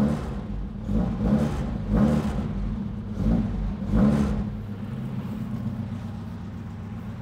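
Mk1 VW Caddy's 16-valve engine on Weber carburettors with intake trumpets, its throttle blipped about five times so the trumpets give their intake sound, then settling to a steady idle about four and a half seconds in.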